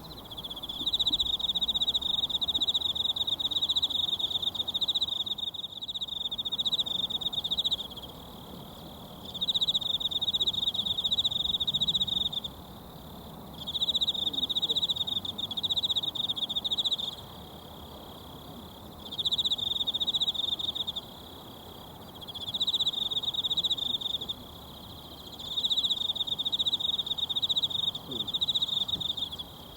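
An insect trilling loud and high in repeated bouts of a few seconds, six in all, with short pauses between them. Under it runs the low steady murmur of a mountain stream.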